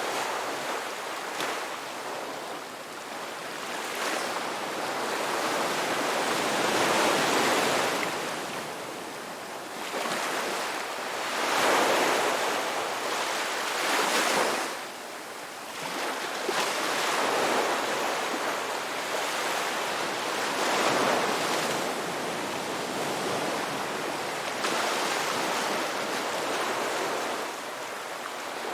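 Ocean waves breaking and washing on a beach, a steady rush that swells and ebbs every few seconds.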